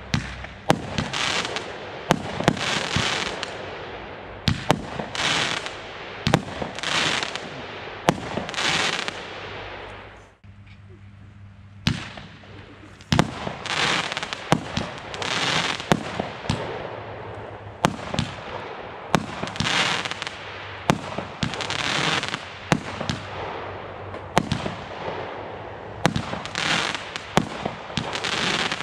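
Consumer fireworks battery firing shot after shot, each a sharp bang followed by about a second of rushing noise. There is a short break about ten seconds in, and then the firing resumes.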